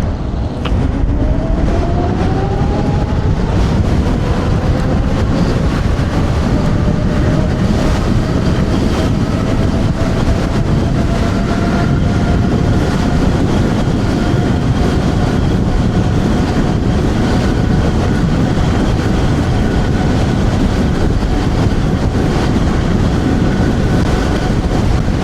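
TRBK M2 electric scooter's motor whining under full-throttle acceleration. The whine rises in pitch over the first few seconds, then holds steady at top speed. Heavy wind rush on the microphone runs underneath.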